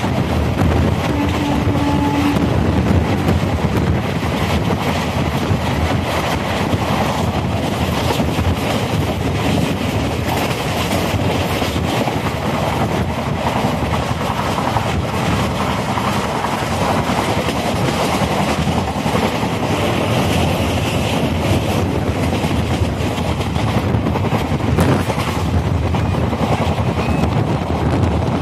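Express passenger train running at speed, heard from an open coach door: a steady rumble with dense clatter of the coach's wheels over the rails.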